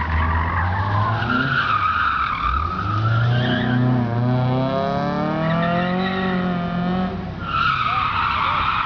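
Car drifting: tyres squealing while the engine revs. The squeal eases off about three seconds in as the engine note rises and falls, then the tyres break into a squeal again sharply about seven and a half seconds in.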